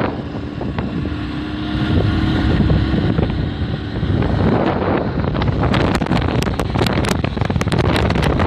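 Wind buffeting the microphone in a dense low rumble. From about halfway through come many sharp clicks and rattles.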